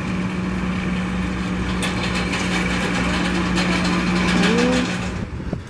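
An engine running steadily with a constant low hum, fading away about five seconds in.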